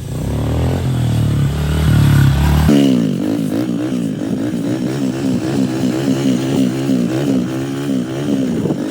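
110cc four-stroke pit bike engine running under throttle; about three seconds in, its pitch starts swinging up and down over and over as the throttle is worked to hold a wheelie.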